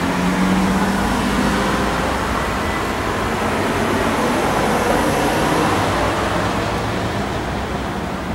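Steady running noise of a motor vehicle, rising slightly about a second in and easing off toward the end.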